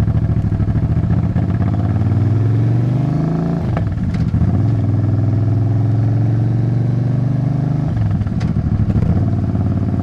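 Suzuki Intruder 800 cruiser's V-twin engine and exhaust, picked up close to the exhaust pipe. The revs climb, drop at a gear change about three and a half seconds in, then hold steady with another brief dip near eight seconds in. A few short knocks sound over the engine.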